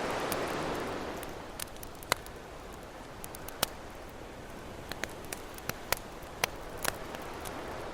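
Campfire crackling, with scattered sharp pops, over an ocean wave that swells and washes out in the first second or so, then a steady surf hiss.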